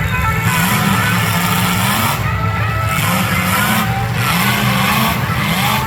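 Demolition derby car engines revving, their pitch rising and falling again and again.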